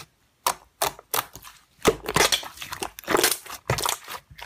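Slime being squeezed and poked by hand: irregular, sticky crackles and squishes in quick succession, starting after a brief silence.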